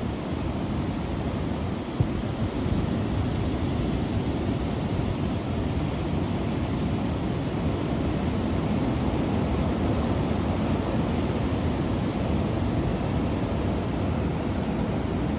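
Strong wind blowing, a steady low noise with no let-up, with one brief knock about two seconds in.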